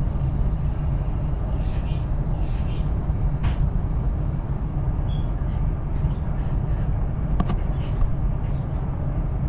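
Chinese CRH high-speed train running, a steady low rumble with a few faint clicks.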